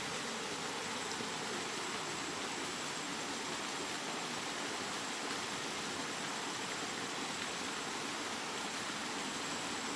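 Steady heavy rain: an even, unbroken hiss with no separate drops or gusts standing out.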